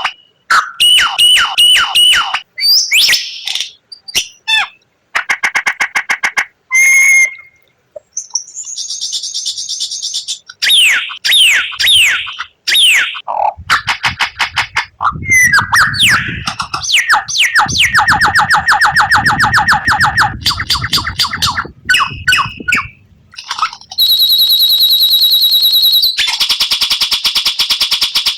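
White-rumped shama singing a varied song: quick runs of repeated notes, falling whistles, trills and long rattling phrases, with short gaps between phrases.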